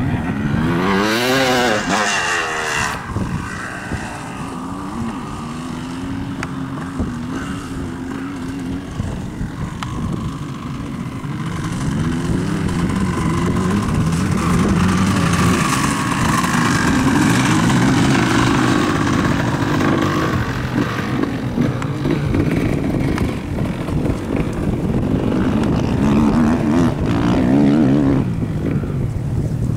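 Motocross motorcycles running on a dirt track, their engines revving up and down repeatedly as they accelerate and shift. Several bikes can be heard at once, loudest in the second half.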